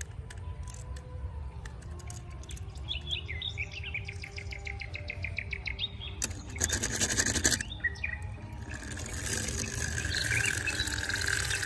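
Bird chirping in a rapid, falling series of notes, followed by a short burst of noise and then a steady buzzing hiss.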